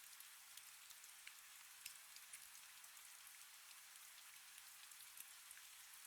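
Faint steady rain: a soft hiss with many scattered drop ticks.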